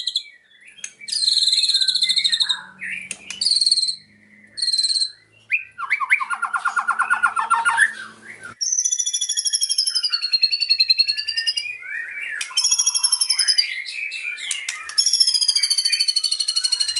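White-rumped shama (murai batu) singing loudly in varied phrases. Short high notes with gaps between them are followed by a fast rattling trill about six seconds in. The song then turns to long, wavering high trilled phrases, which are mimicked song (isian).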